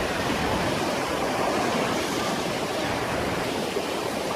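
Steady rushing of fast-moving water, an even noise with no breaks or distinct impacts.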